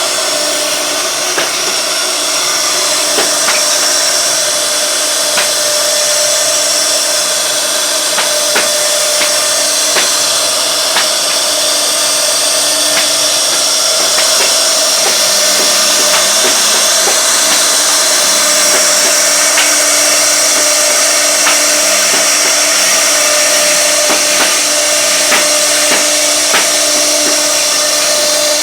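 1325 CNC router spindle running steadily and cutting wood: a steady whine over a strong high hiss, with many small scattered ticks.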